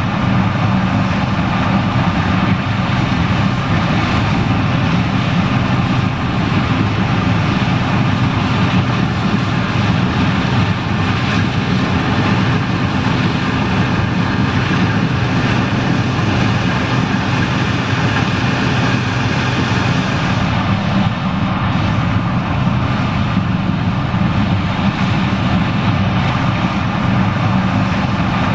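John Deere 9870STS combine running steadily while harvesting corn: a constant low diesel engine drone with an even rushing noise of the machine over it.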